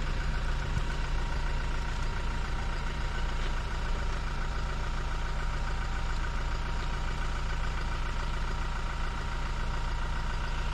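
A vehicle's engine running steadily, a constant low hum that holds the same pitch throughout.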